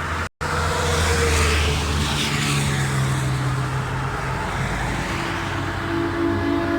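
Diesel bus engine running as a bus goes by on the highway, with tyre and road noise. A new steady pitched note joins near the end.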